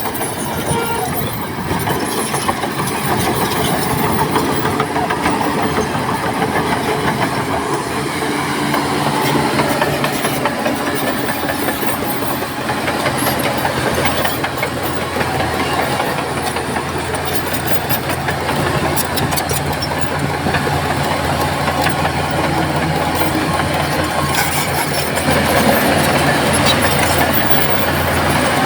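Heavy diesel earthmoving machinery working, a bulldozer and dump trucks, with a steady engine drone and scattered metallic clanks.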